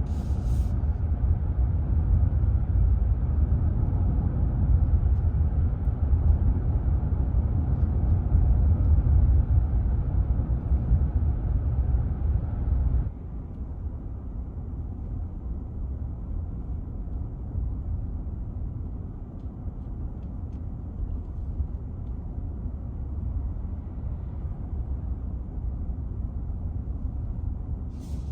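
Steady low road and tire rumble inside the cabin of a moving Ford F-150 Lightning electric pickup, with no engine note. About thirteen seconds in it suddenly drops to a quieter, steady rumble.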